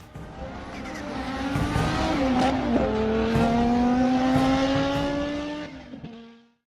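A racing engine on a dirt track: it dips in pitch, then climbs steadily in one long rising note, with a few sharp clicks over it, and fades out near the end.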